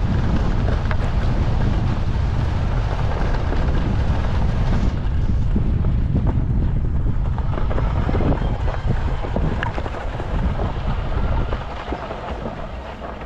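Wind buffeting the microphone: a steady low rumble that eases off about two seconds before the end.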